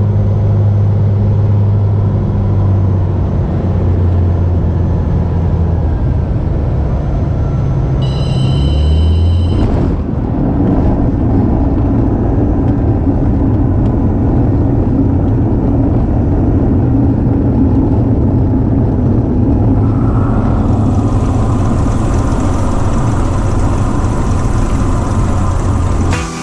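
Cessna 210K's six-cylinder piston engine and propeller droning steadily, heard in the cabin. About nine seconds in the pitch drops and a brief high-pitched tone sounds. After that the sound turns rougher and noisier.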